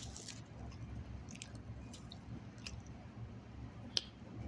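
Close-up chewing and soft wet mouth clicks from someone eating chicken salad with pita bread, with one sharp click near the end.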